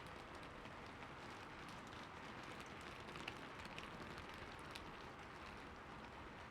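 Faint, steady light rain falling, with many individual drops ticking through it and a few louder drop hits in the middle.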